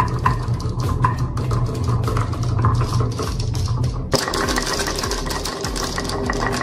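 Marbles rolling and clacking down a wooden marble run, a rapid stream of clicks over a steady low hum. About four seconds in, the sound shifts abruptly to a brighter, denser clatter.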